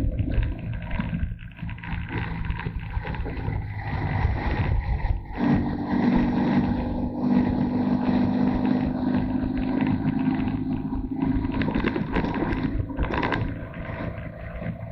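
Motorcycle engine running, heard from a camera mounted on the bike. Its steady hum fades at the start and comes back about five seconds in.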